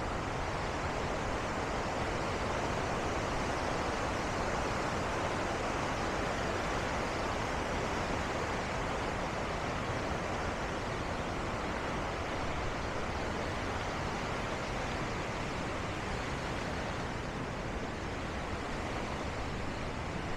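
Steady rushing of Bow Falls, the Bow River's waterfall: a dense, even roar of falling water that swells a little a few seconds in and eases slightly near the end.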